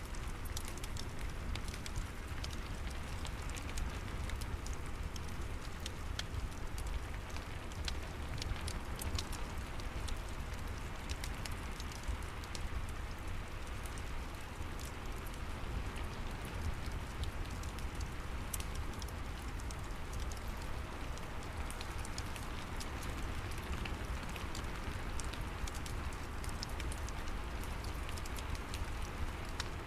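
Steady rain falling outside with a low rumble, mixed with the scattered small pops and crackles of a wood fire in a fireplace.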